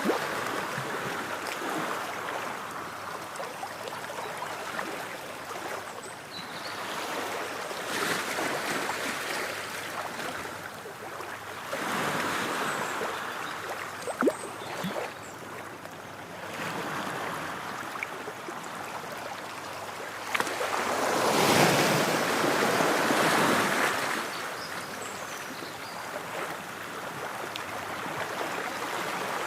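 Ocean waves breaking and washing on the shore, surging in and ebbing away every few seconds, with the biggest swell about three-quarters of the way through.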